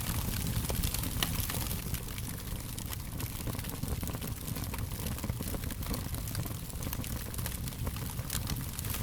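Wood fire crackling steadily, with frequent small pops and snaps over a low rumble and hiss of burning.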